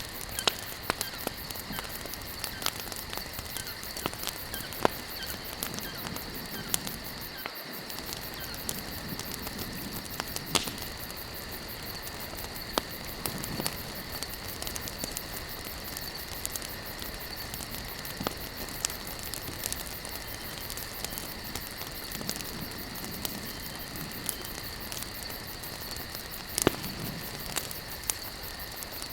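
Wood campfire burning, with frequent sharp crackles and pops over a steady hiss. A steady high-pitched drone runs behind it.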